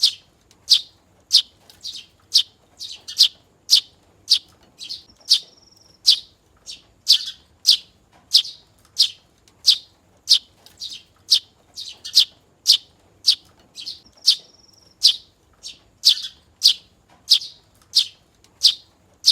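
Young hand-fed Eurasian tree sparrow chirping over and over, about one and a half sharp chirps a second, twice slipping in a short held whistle note between chirps.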